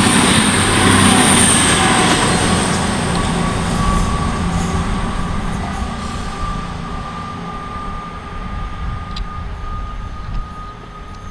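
Two coupled Class 220 Voyager diesel units passing through, loud at first and then fading steadily as they move away. About four seconds in a steady high whine appears and lingers as the train noise dies down.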